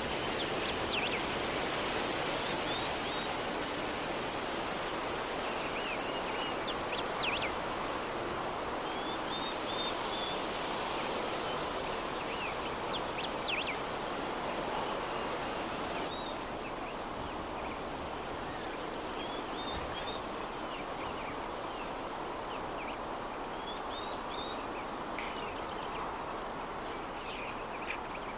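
Soft breeze blowing steadily, with small birds chirping in short repeated phrases throughout.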